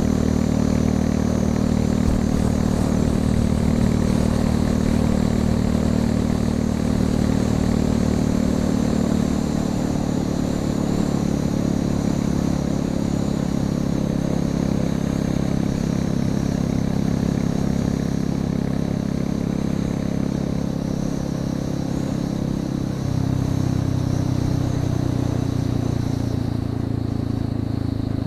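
Royal Enfield Classic 350 single-cylinder engine running through an exhaust with its end tip removed and the catalysts still in place. The engine note holds steady, shifting in pitch about nine seconds in and again around twenty-three seconds.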